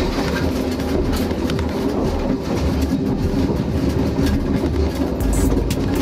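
A train running along the track: a steady rumble with wheels clicking over the rail joints.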